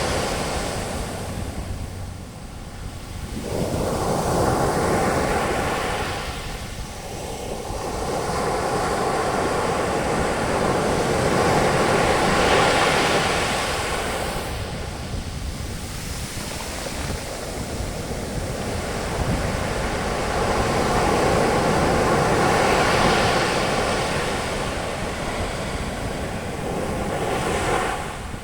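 Ocean waves breaking on a beach, the surf and foam washing up and drawing back in slow swells every several seconds over a steady low rumble.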